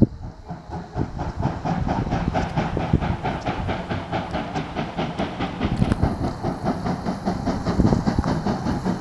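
A steam train running past, with a low rumble and a fast regular beat of about five strokes a second. The beat fades about six seconds in while the rumble goes on.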